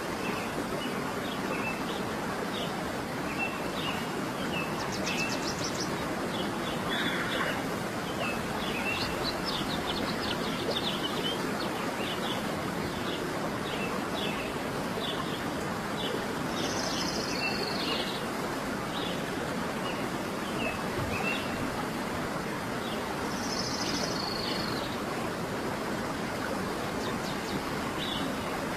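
Birds chirping and singing over a steady rushing background noise: many short, repeated chirps, with a few higher, longer trilled phrases scattered through.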